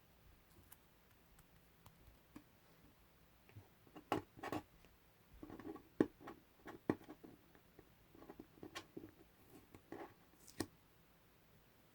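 Masking tape being peeled and handled: soft sticky crackles mixed with sharp clicks and taps. They start about four seconds in, come in irregular clusters, and stop shortly before the end.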